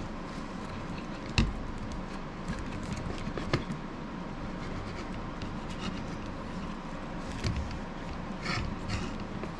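Handling noises from a knife sheath and belt clip being worked by hand: two sharp clicks, about a second and a half in and again about three and a half seconds in, a few lighter ticks, and brief rustling near the end, over a steady background hiss.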